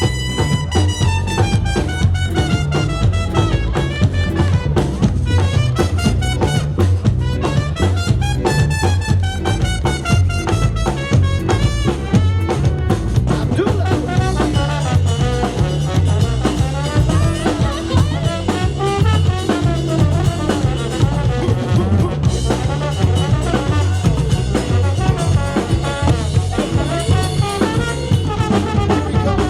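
Live swing band playing an uptempo tune on horns over a drum kit, opening on a long held horn note and then moving into running melodic lines.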